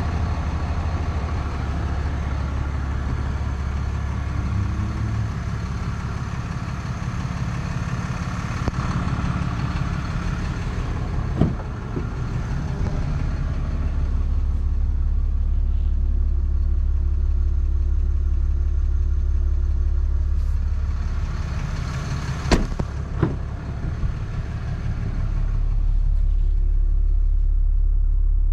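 RAM 2500 heavy-duty pickup engine idling steadily, a low even hum, with a few short sharp knocks about a third of the way in and again around two-thirds through.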